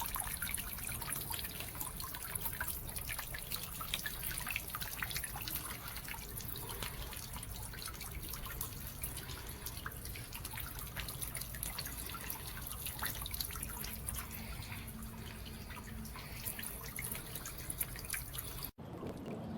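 Solar-powered bird bath fountain's water jet falling back into the basin: a steady patter of drips and small splashes.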